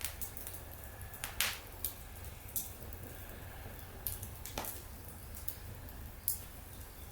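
Wood fire burning in a fire stand, crackling with irregular sharp pops and a brief hiss about a second and a half in, over a steady low hum.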